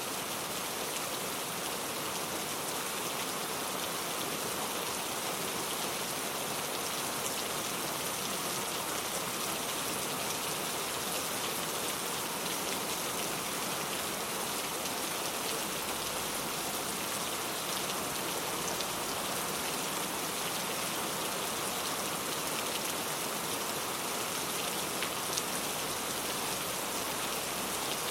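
Steady rain falling and pattering on a surface, an even hiss with fine scattered drop sounds and no change in intensity.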